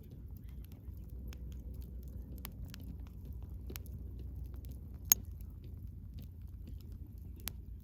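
Wood fire burning with a low steady rumble and scattered small crackles, and one loud sharp pop about five seconds in.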